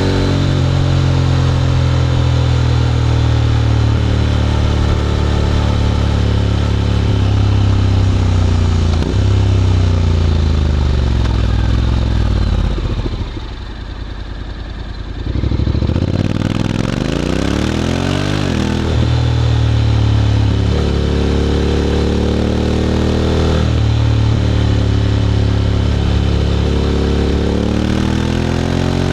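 Honda X-ADV 750's parallel-twin engine through an SC-Project titanium slip-on exhaust, under way: running loud with repeated rises and falls in pitch as it accelerates and changes gear. About halfway through it drops to a quieter low-rev run for a couple of seconds, then pulls away again.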